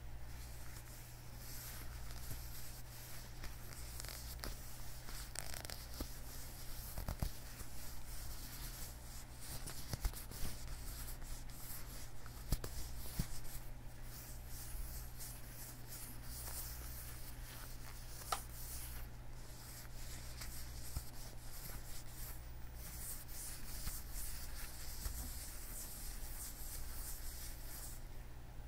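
Leather gloves on the hands being rubbed and handled close to the microphone: continuous rustling of the leather, with a few sharper clicks.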